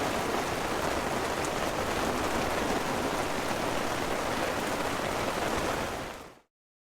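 Heavy rain falling on a tent, a steady even hiss, fading out quickly near the end.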